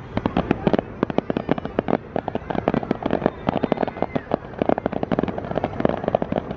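Aerial fireworks bursting in a dense, continuous barrage: sharp bangs, many a second, overlapping one another.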